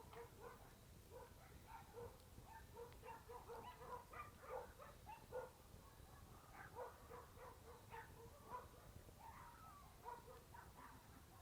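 Faint animal calls from a distance: short notes at one steady pitch, repeated irregularly several times a second, over a low background rumble.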